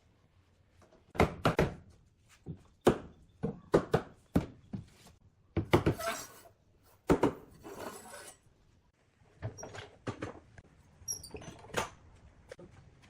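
Irregular knocks and taps of wood being worked, some sharp and loud, with a short scraping or rasping noise about six seconds in.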